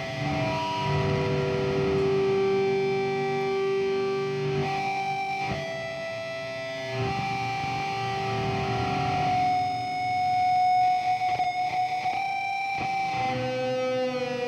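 Instrumental post-rock music: effects-laden electric guitars sustaining and shifting between long notes, with a fluttering, wavering passage near the end.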